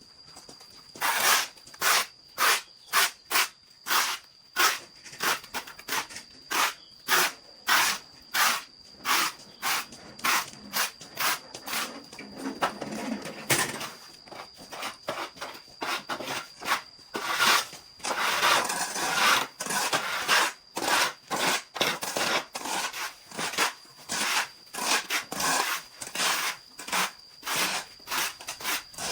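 Hand saw cutting through wood with steady back-and-forth strokes, about two a second, pausing briefly now and then. A faint steady high tone runs underneath.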